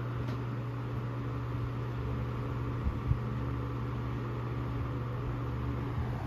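Vintage Emerson Electric 16-inch table fan (model 77648-SG) running steadily: a low, even motor hum under the rush of air from the blades, with a couple of faint ticks about three seconds in.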